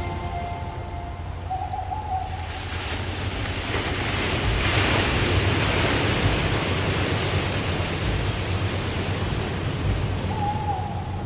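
Waterfall's rushing water with a deep rumble, swelling louder in the middle and easing off again.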